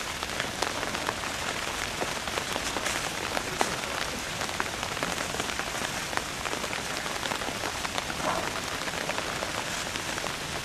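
Steady rain falling: an even hiss with many small, scattered taps.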